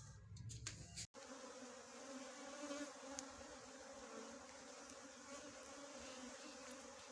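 Faint, steady buzzing of a colony of small honeybees around their nest, starting about a second in.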